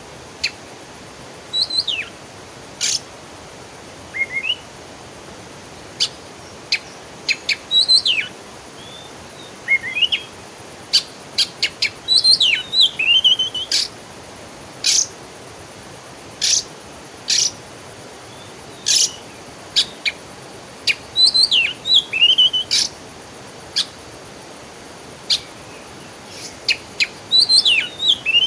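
Songbirds calling and singing: many short sharp chips and swooping whistled phrases, scattered irregularly throughout, over a steady faint hiss.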